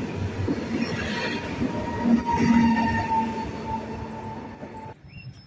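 Koleje Śląskie electric multiple unit running past along the platform: wheels and running gear rumbling under a steady thin squealing tone, fading as the tail car moves away. The sound cuts off suddenly about five seconds in.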